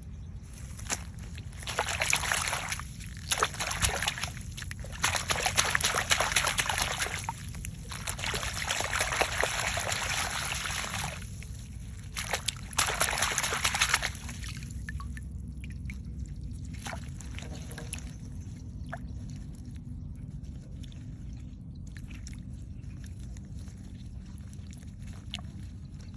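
Water sloshing and splashing as vegetables are washed by hand in water, in several bouts with short pauses. About halfway through the splashing stops, leaving faint drips and small knocks.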